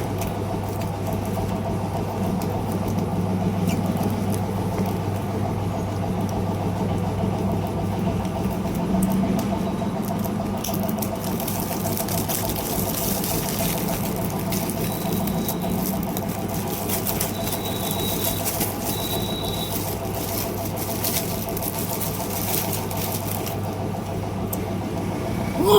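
A machine running steadily with a constant low hum, with scattered light clicks and taps over it.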